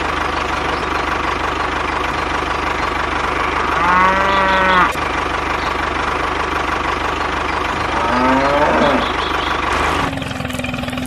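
Engine running with a steady, rhythmic chug while a cow moos twice, once about four seconds in and again, rising, about eight seconds in. Near the end the engine sound changes to a steadier hum.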